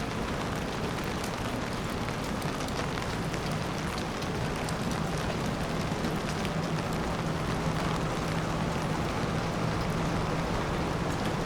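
Steady rain falling on a city street, with fine scattered drip ticks. A low steady hum comes in a few seconds in.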